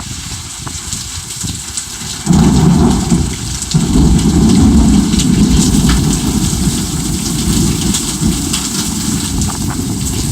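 Heavy rain pouring down and pattering on surfaces, with a loud low rumble of thunder that breaks in about two seconds in and fades away over several seconds.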